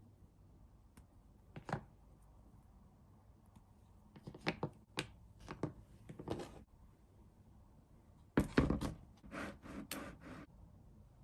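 Sweets and chocolates being set down on a platter: scattered light knocks and clicks in small groups, the loudest and busiest group near the end.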